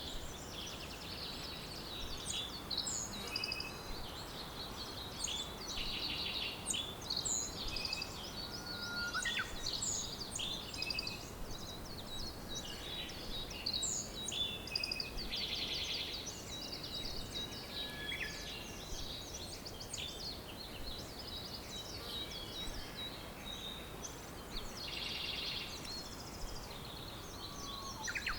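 Several songbirds chirping and trilling over a steady background hiss, with many short high notes and sweeping calls overlapping throughout.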